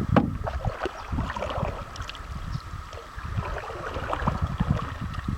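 A canoe being paddled: irregular paddle strokes and splashes in the water, with knocks against the hull and a low rumble of wind or handling on the microphone.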